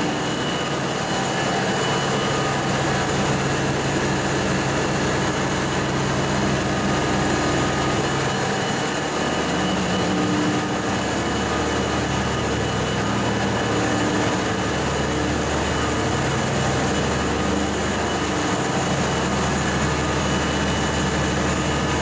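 A steady mechanical drone with several constant whining tones over a continuous rushing noise. The low hum shifts slightly in level every few seconds without stopping.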